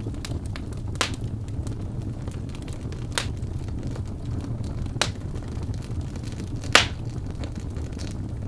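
Fireplace fire burning with a steady low rumble of flames, small crackles and four sharp pops about two seconds apart. The loudest pop comes near the end.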